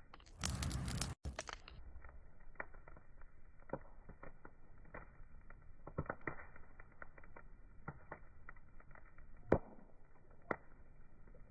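Wood fire crackling, with irregular sharp pops of varying strength and a stronger pop near the end. About half a second in, a louder rushing hiss lasts around a second, with a brief cut-out.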